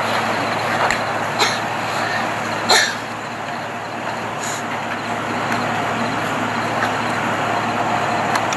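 Steady rumble of road vehicles, broken by two short sharp sounds about a second and a half and nearly three seconds in.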